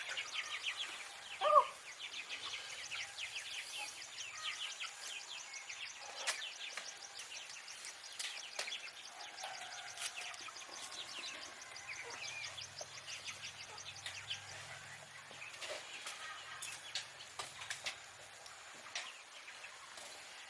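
Farmyard ambience: a chicken gives one short loud call about a second and a half in, over birds chirping and a rapid high trilling, with scattered light knocks.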